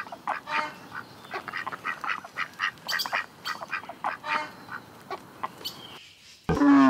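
Ducks quacking: a run of short calls, several a second, then one louder, longer call near the end.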